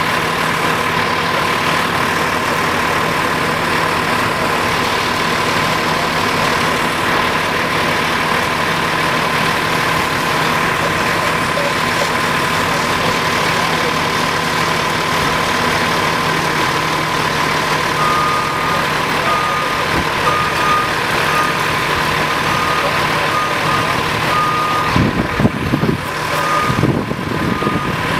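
Heavy trucks idling with a steady high-pitched tone over the engine hum. About two-thirds of the way in, a reversing beeper starts up and beeps repeatedly.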